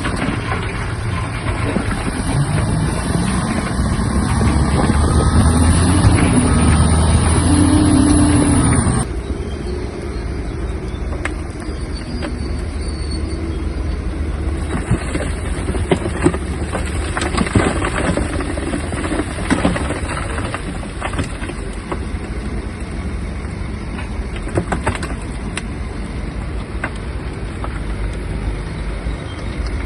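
Shantui DH17-C3 bulldozer's diesel engine running under load, its pitch rising as it revs over several seconds. About nine seconds in, the sound changes abruptly to a lower, steadier engine note with scattered sharp knocks and clanks.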